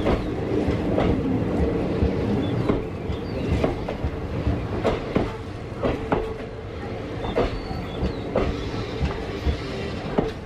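A passenger train running at speed, heard from on board: a steady rumble from the coach with the wheels clacking over rail joints, a sharp click roughly every second.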